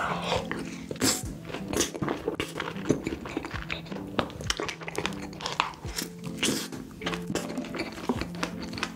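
Close-miked eating sounds of a person biting and chewing cake and strawberries: many short irregular clicks, smacks and crackles of the mouth and food. Background music plays underneath.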